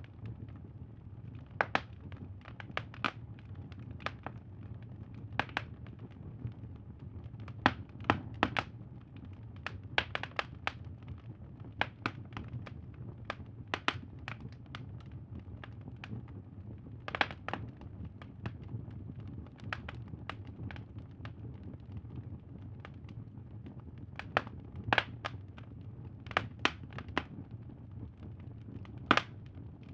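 Crackling bonfire: irregular sharp pops and snaps of burning wood, sometimes two or three close together, over a steady low hum.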